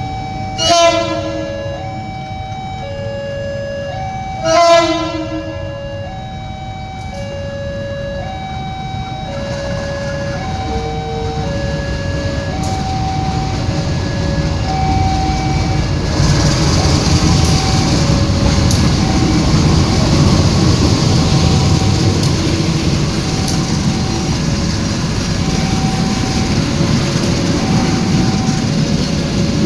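A two-tone electronic level-crossing alarm beeps on and on while the diesel locomotive gives two short horn blasts about four seconds apart. From about ten seconds in, the low rumble of the train builds and stays loud as it passes.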